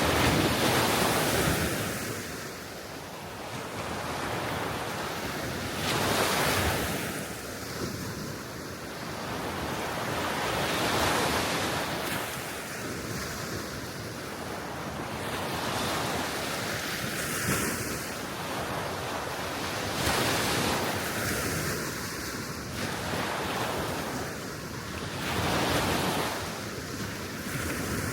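Soft waves washing onto a Baltic Sea shore, each one swelling and fading every five seconds or so, with wind blowing over the microphone.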